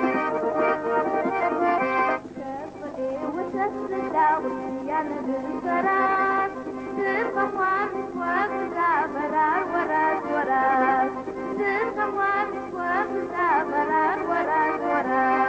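Accordion folk music: sustained chords, with a wavering melody line gliding above them from about two seconds in.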